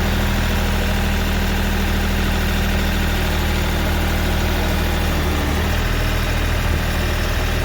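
Kioti CK3510 compact tractor's diesel engine running steadily at an even speed.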